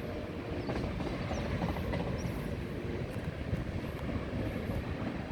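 Freight train's cars rolling past: a steady low rumble of steel wheels on the rails.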